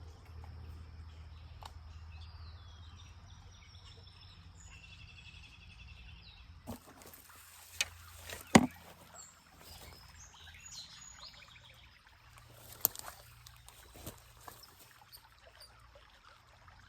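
Small birds chirping and warbling faintly against low outdoor background noise, with a few sharp clicks partway through, the loudest about eight and a half seconds in.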